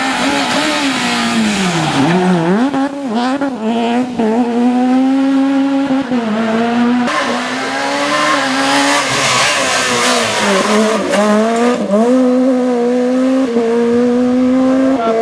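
A Super 1600 rally car's high-revving 1.6-litre four-cylinder engine run hard near the top of its revs. The revs drop sharply about two seconds in and climb back, then step down and up again several times through gear changes.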